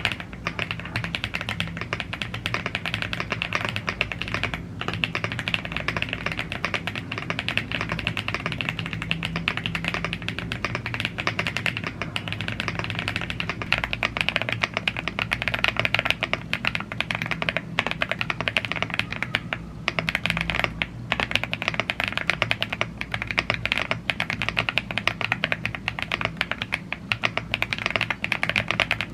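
Continuous fast typing on a gasket-mounted aluminium mechanical keyboard with Blue Grey tactile switches and double-shot PBT keycaps, a dense stream of key clicks with a few brief pauses.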